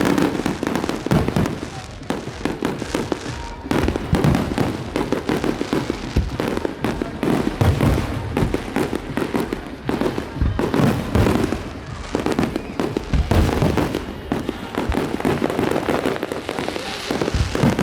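Many fireworks and firecrackers going off at once: a dense, continuous barrage of bangs and crackling pops with no pause.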